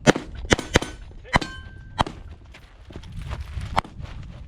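Pistol shots fired at steel targets, about six cracks at uneven spacing, three in quick succession in the first second and the rest more spread out. A few are followed by a short metallic ring from struck steel.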